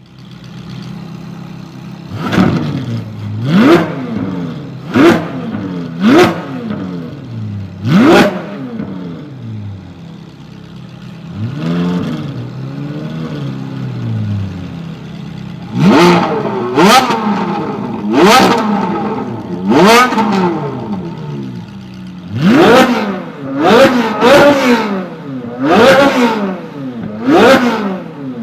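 Naturally aspirated Ferrari V8 idling and being blipped repeatedly while stationary: over a dozen sharp revs that shoot up in pitch and drop straight back to idle, in two clusters, with one slower, softer rev in between.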